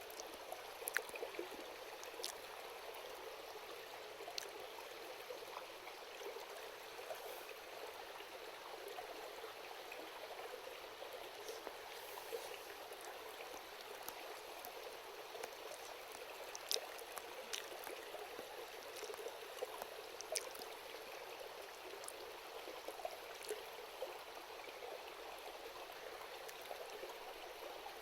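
Steady babbling of a river, with sparse sharp crackles and pops from a wood campfire.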